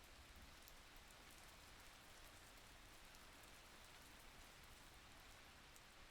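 Faint, steady rainfall: an even hiss with scattered light drop ticks.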